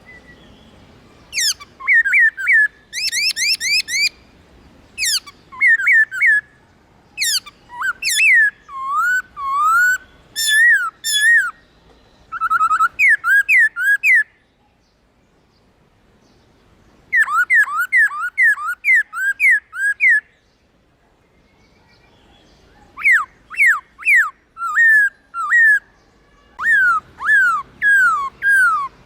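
Black-throated laughingthrush singing: loud whistled phrases of quick down-slurred notes, in bouts broken by two pauses of a few seconds.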